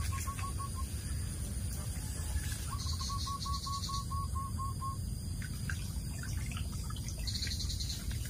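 A bird calling a quick run of short, identical notes, then a longer run of about ten notes a couple of seconds later, over a steady low rumble.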